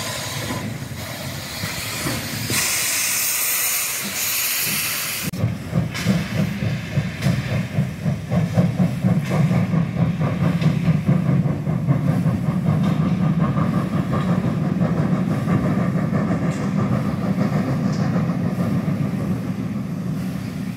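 MÁV class 424 steam locomotive letting off a loud hiss of steam, which cuts off suddenly about five seconds in. A steady, low, rapidly pulsing mechanical sound from the engine follows.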